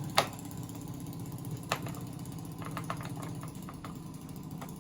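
Plastic clicks and snaps from an RC foam jet's landing gear being handled and snapped back into place: a sharp click near the start and another a little later, then a run of fainter quick clicks, over a steady low hum.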